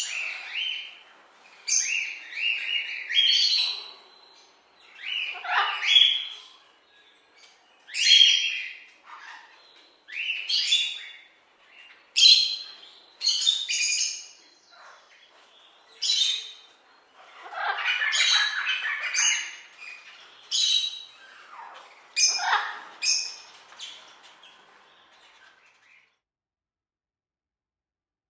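Parrot calling: a string of harsh squawks and chirps, one every second or two, that stops near the end.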